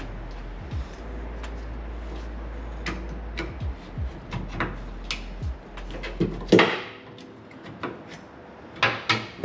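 Scattered clicks and clunks of hand tools and metal fittings as a car's fuel filter is undone, with a louder clunk about two thirds of the way in. A steady low hum underneath cuts off at that moment.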